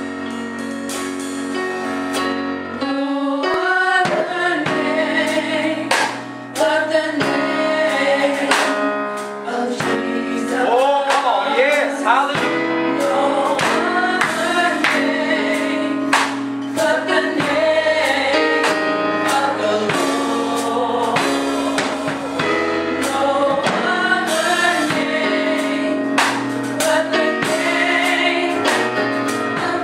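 Gospel music: voices singing over instrumental accompaniment, with sliding, ornamented vocal lines.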